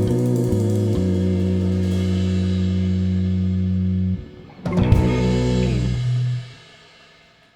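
A live band ends a song. Guitar and bass hold a chord, which breaks off about four seconds in. Moments later the band hits one final chord with a drum and cymbal crash, and it rings out and fades away.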